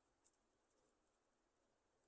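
Near silence with a few faint small clicks and rustles from roosting budgies moving about, the sharpest about a quarter of a second in.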